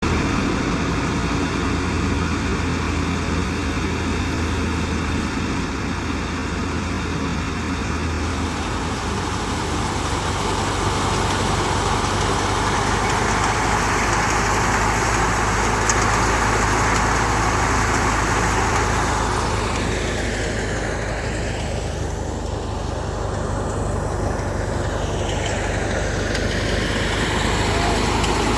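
Massey Ferguson 385 tractor's diesel engine running steadily under load, driving a wheat thresher, with a broad rushing noise from the machinery over the engine's low drone.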